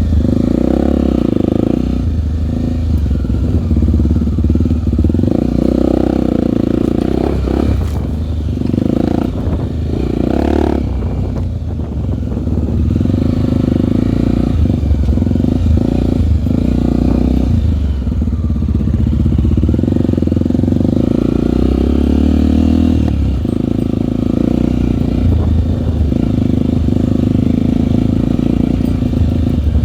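Single-cylinder four-stroke trail motorcycle engine running under way, the throttle opening and closing, with brief let-offs about eight to twelve seconds in.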